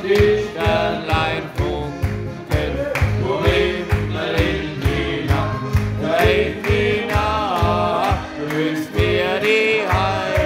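Live band music in a steady march-like beat, with regular thumps in the bass under a moving melody line.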